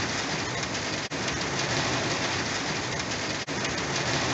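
Heavy rain falling steadily in a thunderstorm, a dense even hiss, with two brief dropouts, about a second in and about three and a half seconds in.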